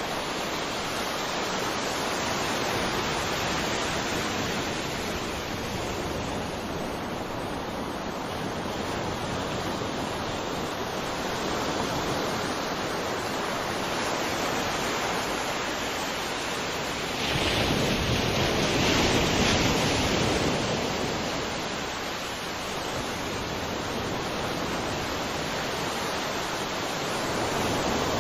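Sea waves: a steady wash of surf, with a larger wave surging and breaking about seventeen seconds in and the swell building again near the end.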